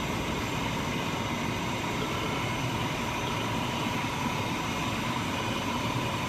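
Portable induction melting furnace and its high-frequency 15 kW induction heating machine running steadily: an even mechanical hum with a thin, constant high whine, while brass melts in the crucible.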